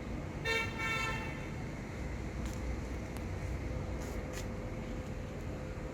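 A vehicle horn gives two short honks about half a second in, followed by a steady low rumble.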